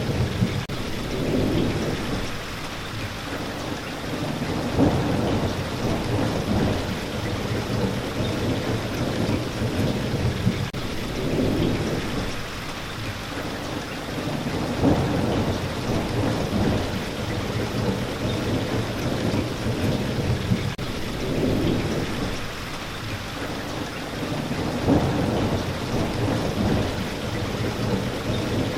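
Steady rain, with low rolling thunder swelling and fading every few seconds.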